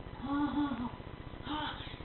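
A high-pitched child's voice making two drawn-out wordless moans, a longer one just after the start and a short one about a second and a half in, crying out in play-acted pain.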